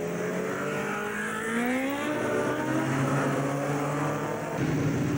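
Superbike racing motorcycle engines revving as the bikes pull away. The pitch rises about a second and a half in, then the engines run steadily.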